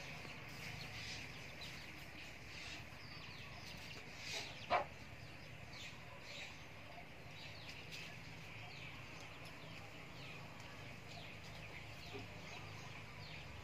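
Faint bird chirping throughout, many quick falling chirps, with one short louder call a little under five seconds in.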